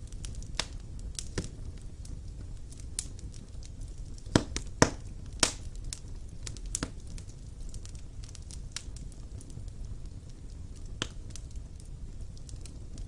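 Wood fire burning in a stone fireplace: sharp, irregular crackles and pops over a low, steady rumble of the flames, with three louder pops a little past a third of the way in.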